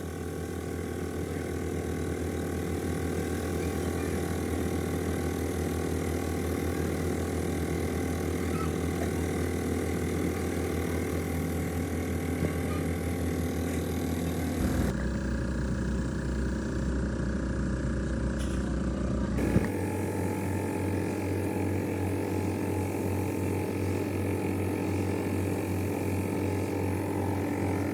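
Steady mechanical hum of a machine running at a constant pitch, switching abruptly to a different, deeper hum about 15 seconds in and back about 20 seconds in.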